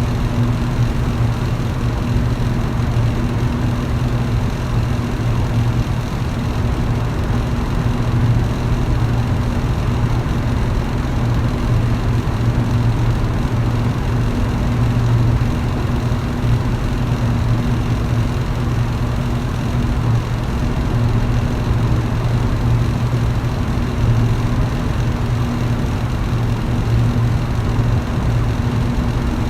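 Electric fan running steadily: a constant low hum under an even rush of air, unchanging throughout.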